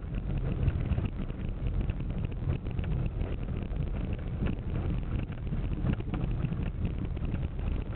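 Steady low rumble of a car driving along a road, with wind buffeting the microphone and faint small rattles throughout.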